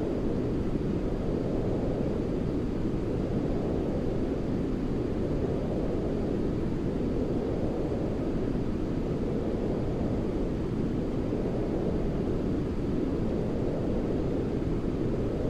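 Steady, deep white-noise sleep sound of the brown-noise kind: an even rumbling hiss, strongest in the low range and soft in the highs, running on without change.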